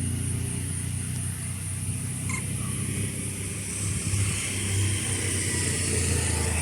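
A vehicle engine running steadily at idle as a low, even hum, with a single faint click about two seconds in.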